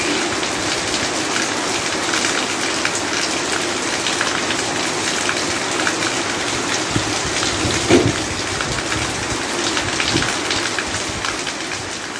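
Heavy rain falling on a tin roof, a dense steady patter with water pouring off the roof edge and splashing below. Single drops tick through it, with one louder splat about eight seconds in.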